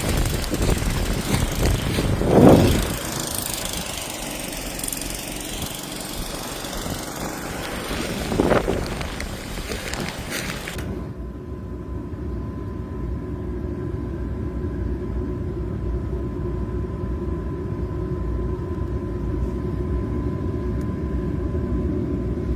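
Storm wind rushing, with two brief louder swells. About halfway through it cuts off abruptly to a steady low motor-vehicle engine rumble with a faint steady whine.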